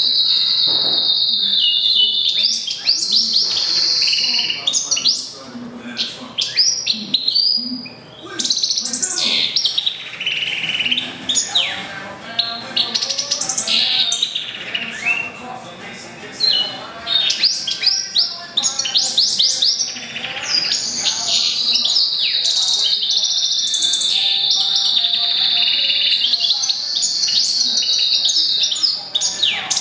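Goldfinch × canary mule singing a long, varied song: rapid trills held high near the start and again through most of the last eight seconds, with quick chirps and sweeping notes between.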